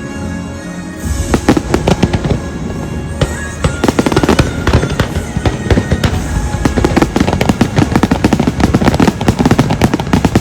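Fireworks display going off in rapid bangs and crackles over the show's music. The bursts pick up about a second in and become a dense, continuous volley from about four seconds in.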